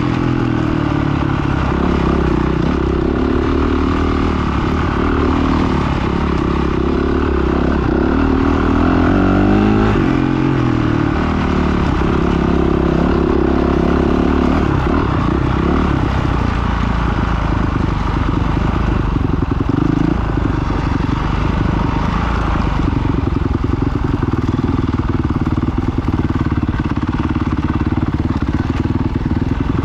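Off-road motorcycle engine running continuously as the bike is ridden, its revs rising and falling several times about a third of the way in, then holding steadier.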